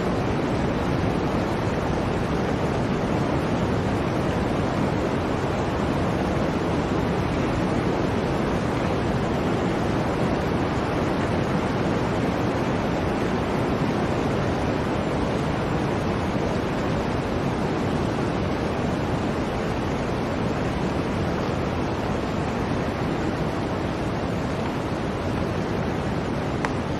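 Blizzard wind blowing in a steady, even rush without gusts or breaks.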